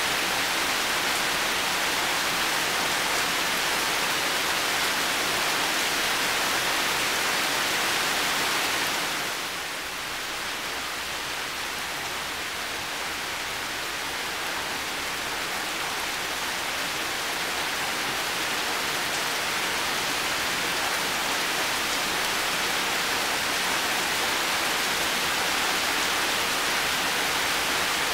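Heavy rain falling steadily, an even hiss of countless drops. About nine seconds in it softens slightly, then slowly builds back to its full strength.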